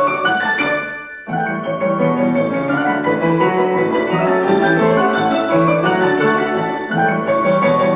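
Piano playing a fast run of many bright notes, which breaks off briefly about a second in and then carries on.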